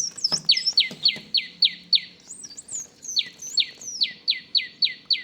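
Small birds chirping: two runs of quick, sharply falling chirps, about four a second, with a short pause between them and higher twittering calls over the top.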